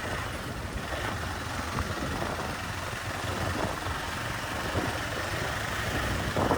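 Motorbike engine running steadily at low revs.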